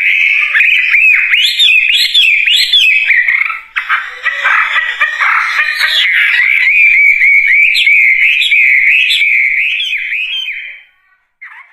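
A songbird known in Indonesia as the wambi (wambie) singing a loud, continuous warbling song of rapid, rising and falling whistled notes, rougher for a second or two around the middle, breaking off near the end.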